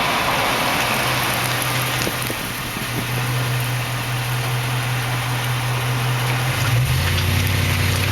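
2004 Toyota Tundra's 4.7-litre V8 running steadily as the truck drives slowly, over road and tyre noise. The engine note drops briefly near the end.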